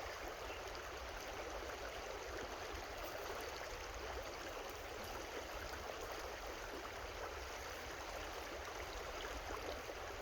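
Steady rush and babble of a creek flowing over rocks.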